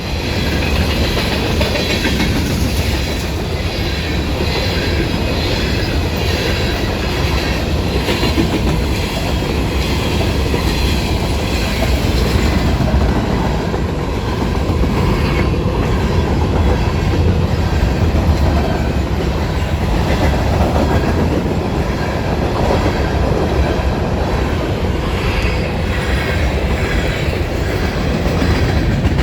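Freight train of grain hopper cars rolling steadily past at a grade crossing, its wheels running on the rails.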